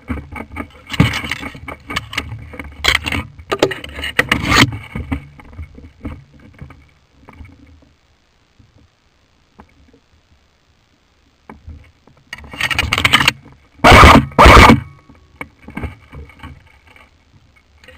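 Rustling, scraping and knocking of movement rubbing against the microphone, uneven for the first few seconds, then mostly quiet, then a scraping burst and two very loud short blasts about two thirds of the way through.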